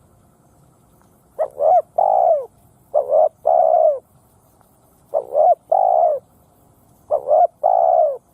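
Spotted dove cooing: four phrases a couple of seconds apart, each a quick two-part coo followed by a longer drawn-out coo, the first starting after a short quiet stretch.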